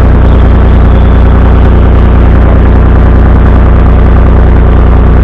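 Farm tractor engine idling steadily, loud and close, with a deep even hum.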